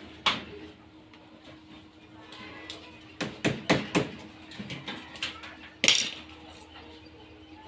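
Metal knocks and clinks from handling tools and sheet metal during assembly: one knock shortly in, a quick cluster of about four around three to four seconds, and the loudest single knock near six seconds.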